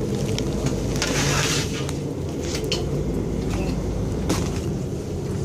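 Passenger train car running, heard from inside: a steady low drone and rumble with scattered clicks and rattles, and a short burst of hiss about a second in.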